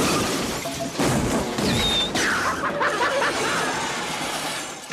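Car-chase film soundtrack: music score under the action, with a heavy crash-like impact about a second in, followed by gliding high-pitched sounds.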